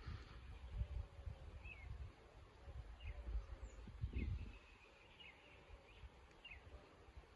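A bird giving faint, short chirps that slide down in pitch, about once a second. Under them is a low rumbling on the microphone that swells about four seconds in.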